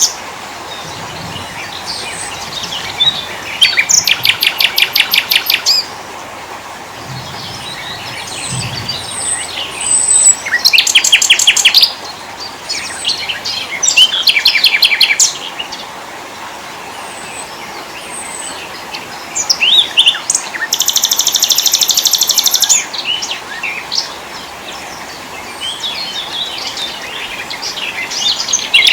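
Small forest songbirds singing together: about four loud runs of rapidly repeated high notes, each lasting roughly two seconds, with scattered shorter chirps and whistles between them, over a steady background hiss.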